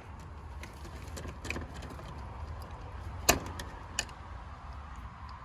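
Light clicks and snaps of wire connectors being handled on a relay in an air conditioner condenser unit's control panel, with a sharp click a little past three seconds in and another about a second later, over a steady low hum.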